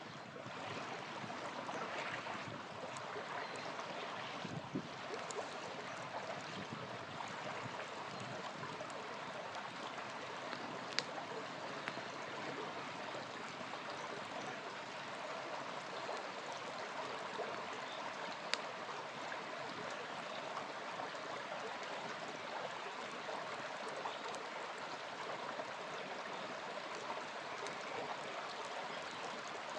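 A small river flowing steadily with an even rushing and gurgling, and a campfire giving an occasional sharp crackle, with two clearer pops about a third of the way in and again past the middle.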